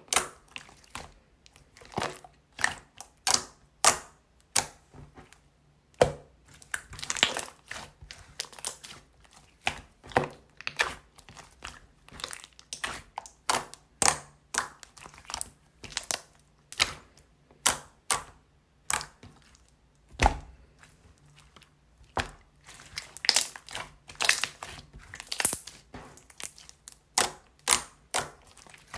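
Soothing-gel slime being squished and pressed by hand, giving irregular sharp crackles and pops, roughly two or three a second.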